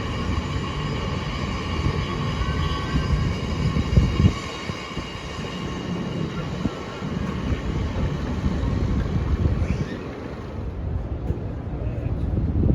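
Angels Flight funicular car running on its narrow-gauge rails: a steady low rumble with faint high steady tones above it, which ease off about ten seconds in.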